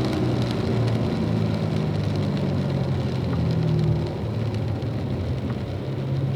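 Car engine pulling steadily on a wet track, with a hiss of rain and tyre spray, easing off a little about four seconds in.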